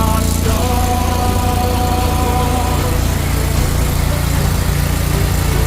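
Loncin 40-horsepower petrol engine of an engine-driven high-pressure washer running steadily.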